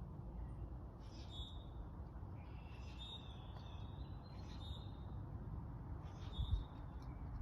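Birds calling: several short, high calls spaced a second or two apart, over a steady low rumble.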